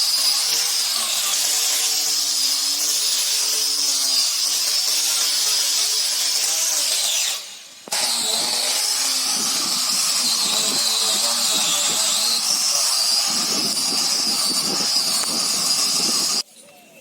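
A handheld power tool running with a steady high whine, in two long runs. It cuts out for a moment about seven seconds in and stops abruptly near the end, its pitch sagging briefly in the second run as it is loaded.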